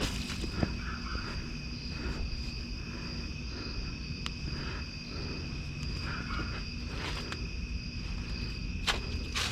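Steady high insect trill, like crickets, over a low rumble, with soft rustles and a few sharp clicks of items being handled in a dumpster, the loudest click near the end.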